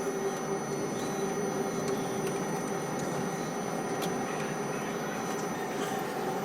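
Steady machinery hum with a constant low tone and a few faint ticks.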